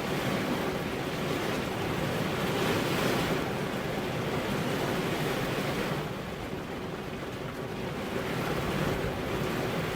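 Heavy rain falling steadily, a dense hiss that swells about three seconds in and eases for a couple of seconds past the middle.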